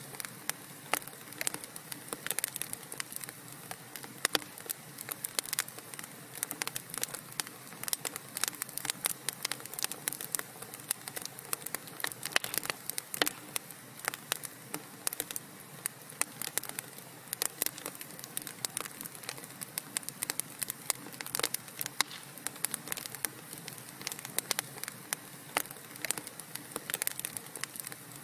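Wood fire crackling in a fireplace: a soft steady hiss broken by many sharp, irregular pops and snaps.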